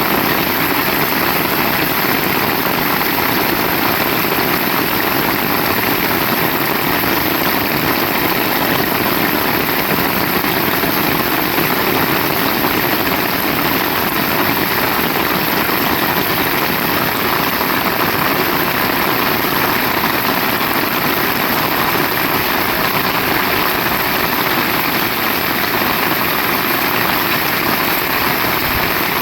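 Heavy rain falling in a steady, even hiss that does not let up.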